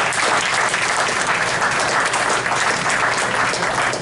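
Audience applause, many hands clapping at a steady level.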